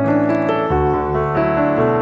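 Background piano music: sustained chords changing about every half second.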